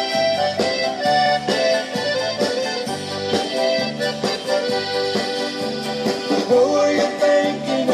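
Accordion playing the lead over a band with a steady pulsing bass, an instrumental break in a Tex-Mex country song.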